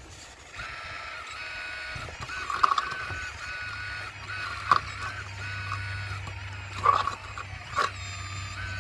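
Model RC Caterpillar excavator's motors whining as it works, the pitch stepping up and down. There are four sharp knocks as it breaks into an old stone wall, and a low hum joins about a third of the way in.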